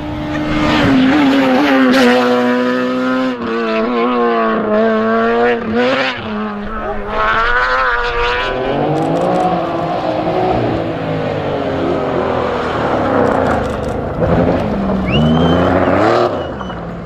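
Rally car engine at hard throttle, its pitch climbing and dropping again and again as it revs and shifts gear. The engine note changes character about halfway through.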